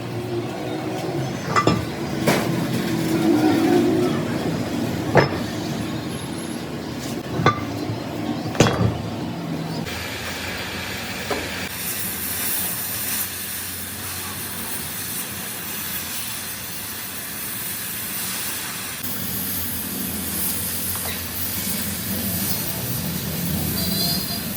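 A few sharp knocks, like metal being struck, over steady background noise, then a steady hiss that begins about ten seconds in and runs on.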